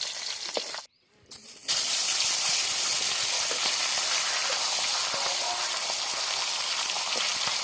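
Food frying in hot oil in a pan, a steady hissing sizzle. It cuts out briefly about a second in, then comes back louder.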